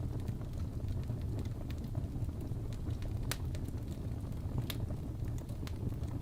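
Wood fire burning in a fireplace: a steady low rumble of the flames with scattered sharp crackles and pops of burning wood, the loudest about three seconds in and again about a second and a half later.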